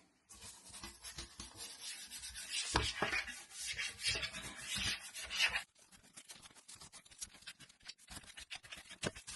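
A floor being scrubbed by hand: rough rubbing strokes for about five seconds, then lighter scattered scratches and taps.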